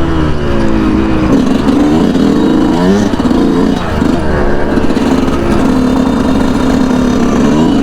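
2019 Yamaha YZ125 two-stroke engine running under way, its pitch rising and falling several times as the throttle is worked, then holding steadier for a couple of seconds near the end.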